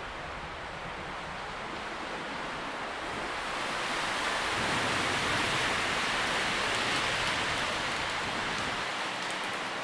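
Wind rustling through tree leaves, swelling into a stronger gust about halfway through and then easing off.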